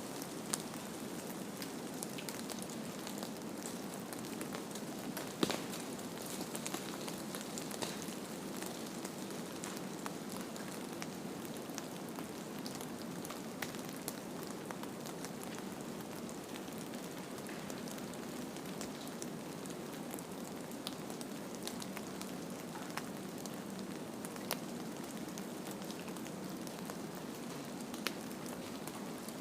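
Steady, even hiss with scattered light ticks and crackles throughout, with no music or voice.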